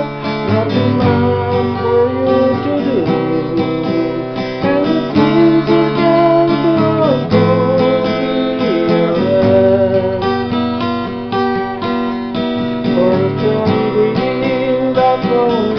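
Instrumental break of a country-folk song: acoustic guitar strumming chords with a melody line gliding over it.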